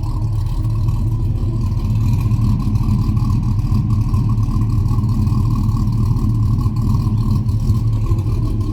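Chevrolet 4.8-litre V8 with a Texas Speed stage 2 cam, still untuned, idling steadily with no revving. It runs with an exhaust leak that the owner calls massive.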